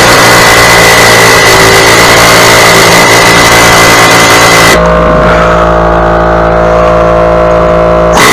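Small gasoline engine running loud and close. About five seconds in, the rough high hiss drops out and the engine note settles to a steadier tone.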